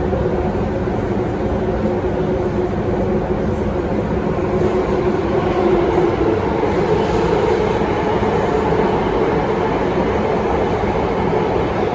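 Alstom Metropolis C830C metro train running in service, heard from inside the car. There is a steady rumble of wheels on rail under a drone of motor hum tones, which rise a little in pitch and loudness about halfway through.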